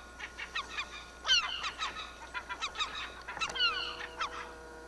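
A colony of gulls calling at their nesting site: many overlapping harsh calls, each dropping in pitch, with the loudest burst about a second and a half in.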